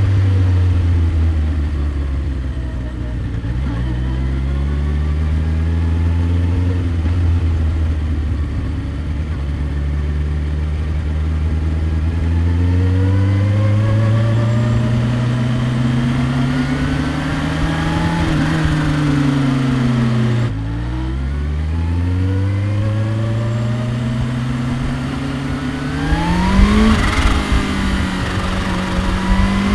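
Kawasaki Ninja H2's supercharged inline-four engine and exhaust on the move: running steady and low at first, then accelerating with rising pitch, a sharp drop in revs about twenty seconds in, and climbing revs again toward the end.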